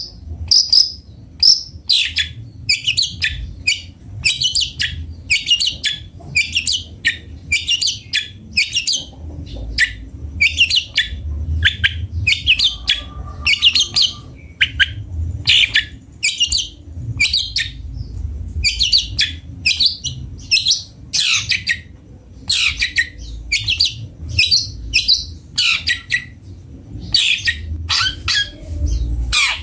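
Long-tailed shrike (cendet) singing: a continuous run of short, high chattering notes, about two to three a second, with a few notes falling in pitch near the end.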